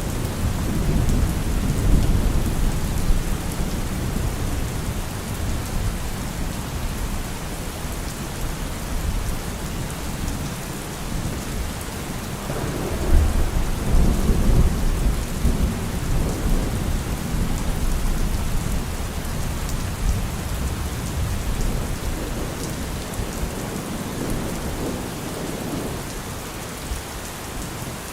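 Steady rain falling, with thunder rumbling low and rolling throughout; the rumble swells loudest about halfway through.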